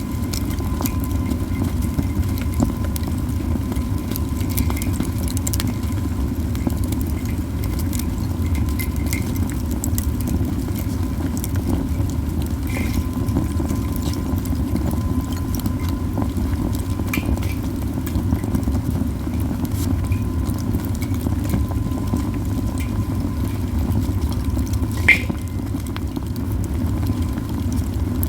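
Heap of pine cones burning in a campfire, crackling with scattered pops over a steady low rumble; one louder pop near the end.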